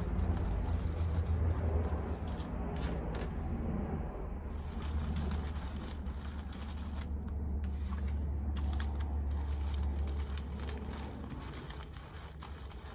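Purple basket shred crinkling and rustling as it is handled and tucked into an Easter basket, over a steady low hum.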